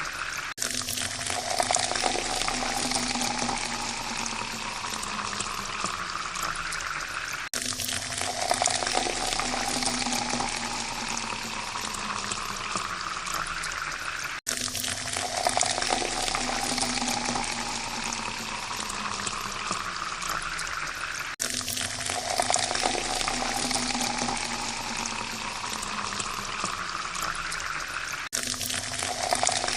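Water being poured into a glass, the pitch of the pour rising as the glass fills. The same pour repeats about every seven seconds, each time cutting off briefly before starting again.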